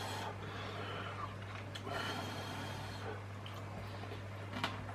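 A man quietly chewing a mouthful of pot pasta with his mouth closed and breathing through his nose, over a steady low hum. There is a single light click near the end.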